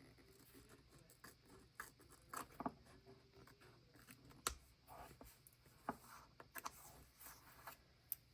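Faint, scattered snips and rustles of sticker paper being trimmed off journal pages, with one sharper click about halfway through.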